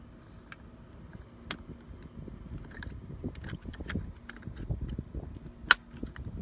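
A plastic replacement part being handled and pushed into place, with small clicks and rustling, then one loud sharp snap near the end as its clips lock in.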